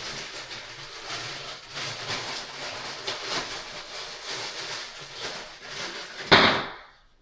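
Rustling and light clicking as the parts of a sink pop-up drain assembly are handled. Near the end comes one loud, short burst of noise that cuts off sharply.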